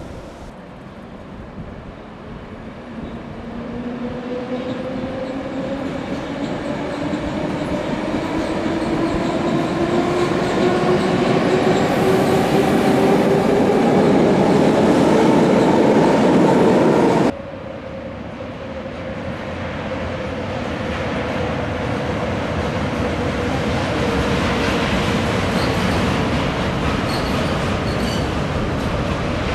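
Electric passenger trains rolling across a steel truss railway bridge. The first gives a whine that rises steadily in pitch over the rumble as it grows louder and then breaks off suddenly. The second, an ÖBB Cityjet electric multiple unit, runs with a steadier whine that builds up again toward the end.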